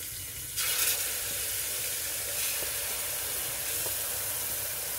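Hot oil sizzling in an aluminium pressure cooker, flaring suddenly louder about half a second in as a wet ground onion-tomato paste is tipped in, then frying steadily.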